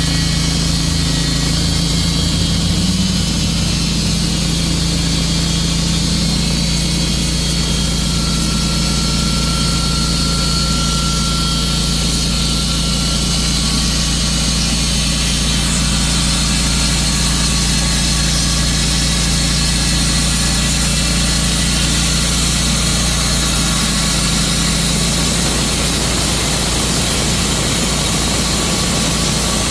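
Tru-Cut sawmill's engine running steadily at an even, loud level.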